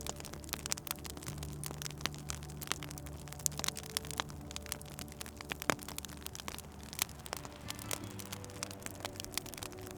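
Wood fire crackling in a fireplace, with irregular sharp pops and snaps, one louder pop a little before six seconds in. Underneath, soft ambient music of held low notes that change about a second in and again near eight seconds.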